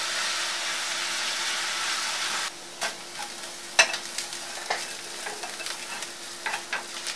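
Chopped onions and green chillies sizzling in oil in a stainless steel pan; the sizzle drops suddenly about two and a half seconds in. A wooden spatula then taps and scrapes several times as spice powders are scraped into the pan and stirred.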